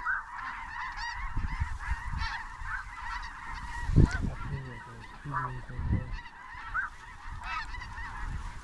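A large flock of snow geese calling: a dense, continuous chorus of high, yelping honks. There is a single sharp thump about four seconds in.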